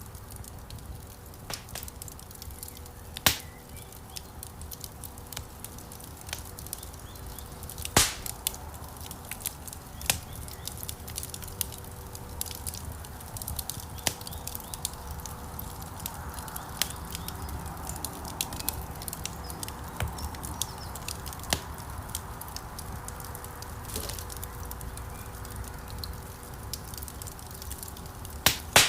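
Wood fire burning in a stone fireplace: a low rumble of flames under constant small crackles, with a few loud sharp pops from the logs, one about three seconds in, one about eight seconds in and one near the end. A faint steady hum runs underneath.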